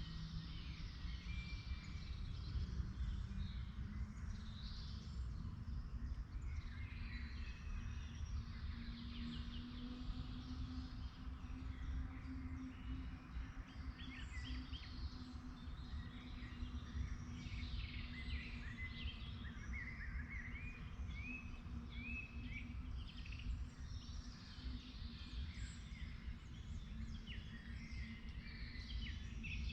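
Several songbirds chirping and singing in a forest, many short calls and trills overlapping throughout, over a steady low rumble.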